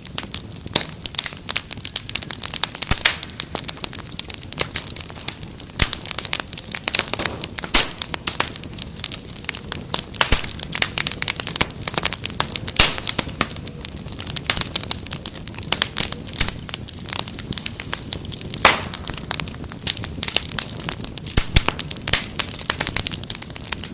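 Wood fire crackling in a fireplace: frequent irregular pops and snaps over a steady low rush of burning.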